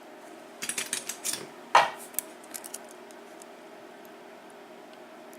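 Small metal clicks and light rattles, in a cluster from about half a second in to nearly three seconds, the loudest a sharp click a little under two seconds in: the pins and springs of a disassembled Abus padlock being tipped out and handled on a hard surface.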